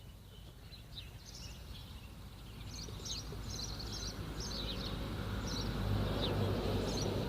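Small birds chirping in short, repeated calls, with a low rumbling noise swelling over the second half.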